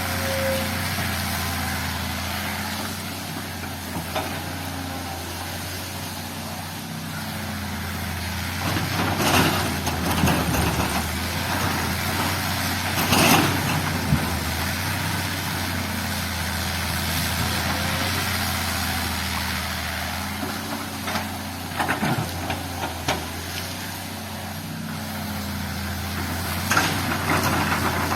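Heavy diesel earthmoving machine running steadily at work, with scattered sharp knocks and scrapes, loudest about a third and three quarters of the way through.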